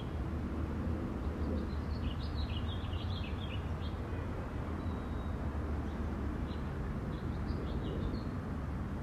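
Small birds chirping in quick runs of short high notes, twice, over a steady low rumble.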